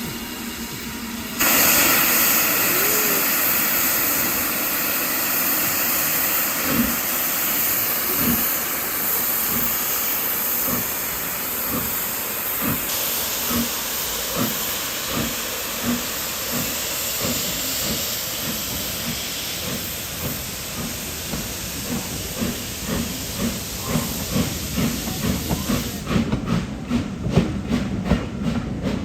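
Steam locomotive pulling away: a sudden loud hiss of steam just over a second in, then exhaust beats that come closer and closer together as it gathers speed. Near the end the hiss stops and quick clicking of wheels over the rails takes over.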